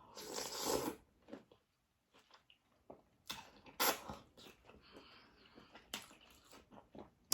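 Mukbang eating sounds: a short breathy burst in the first second, then scattered wet clicks and smacks of chewing spicy seafood.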